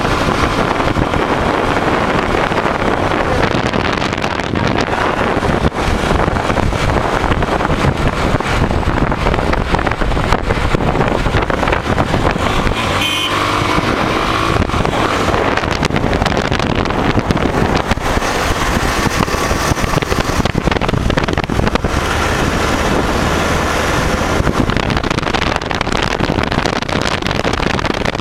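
Steady wind rushing over the microphone as a Karizma motorcycle rides at speed, with its single-cylinder engine running underneath. A brief pitched sound cuts through about halfway through.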